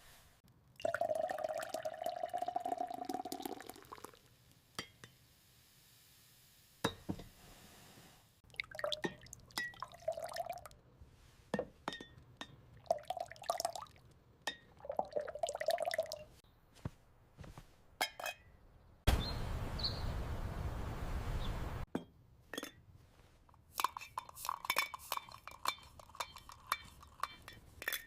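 Kitchen sounds of glassware and utensils clinking, with liquid pouring and dripping in short runs. A steady pouring rush lasts about three seconds some two-thirds of the way through.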